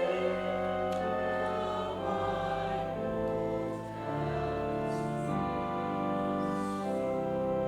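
Church choir singing a slow piece in held chords that change every second or so.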